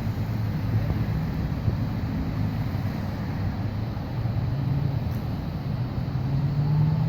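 A motor vehicle engine running steadily, then pulling harder and rising slightly in pitch about six seconds in, under wind buffeting the phone's microphone.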